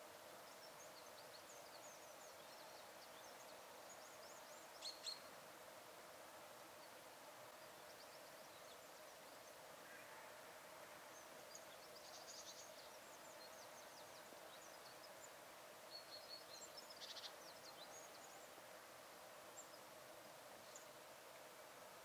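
Faint, high-pitched chirps and calls of small songbirds such as tits, in short scattered runs over a steady faint background noise. A louder pair of sharp calls comes about five seconds in, and a louder cluster of calls comes later.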